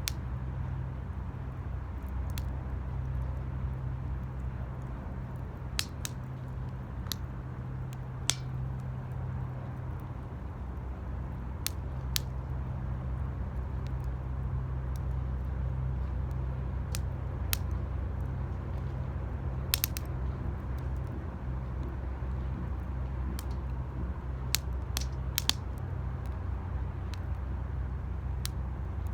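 Wood fire burning in an 18-litre square metal can, crackling with sharp pops every few seconds, sometimes two or three close together, over a steady low rumble.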